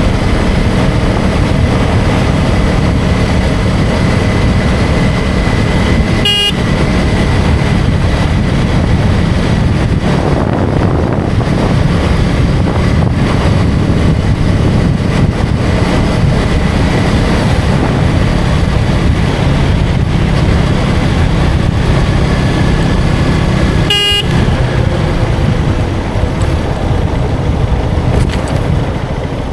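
KTM Duke 250's single-cylinder engine running steadily at road speed, with heavy wind noise over the microphone. Two short horn toots cut through, about six seconds in and again near the end.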